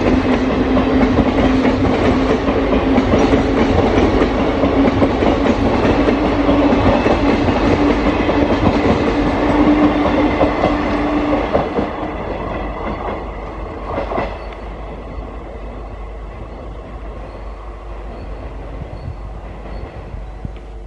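Passenger train coaches rolling past at speed, wheels clattering over the rail joints with a steady hum that slowly rises in pitch. About twelve seconds in, the sound drops off as the end of the train passes, leaving a fainter rumble with one brief clunk a couple of seconds later.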